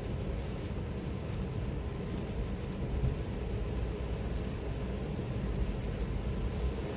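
Steady low road and tyre rumble heard inside the cabin of a Tesla driving on a wet road in the rain.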